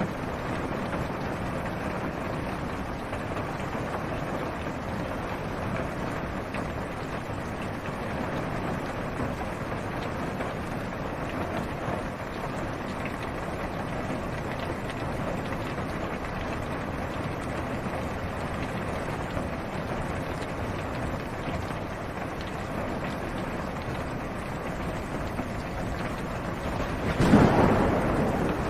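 Steady rain falling on a car's roof and windshield, heard from inside the car. A clap of thunder breaks in near the end and is the loudest sound.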